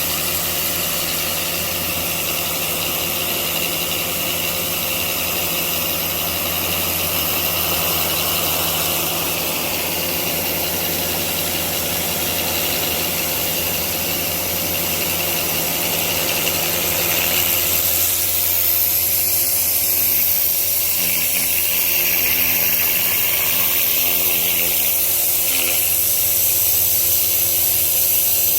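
Pressure washer running steadily, its engine hum under the hiss of the spray. The sound shifts about eighteen seconds in.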